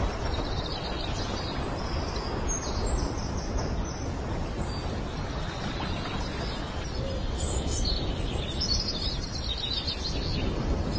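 High, quick bird chirps in runs, one about a second in and a longer one from about seven seconds in, over a steady rushing background noise.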